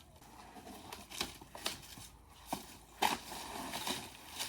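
Old wooden posts being picked through and shifted: a handful of separate knocks and scrapes of wood, the loudest at the very end.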